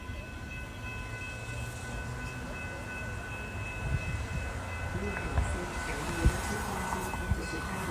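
Train rolling by: a steady low rumble with a few sharp clanks in the second half, over steady high ringing tones.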